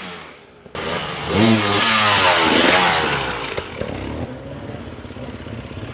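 Dirt bike engine revved hard about a second in, its pitch rising and falling, then dropping back to a steady, low, pulsing idle for the last couple of seconds.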